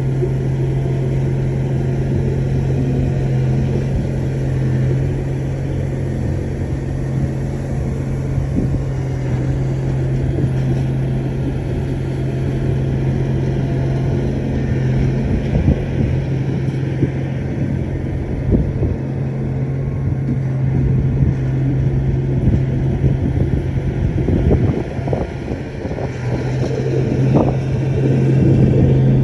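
Bulldozer's diesel engine running steadily with a deep, constant hum. From about halfway on, scattered knocks and clanks sound over it.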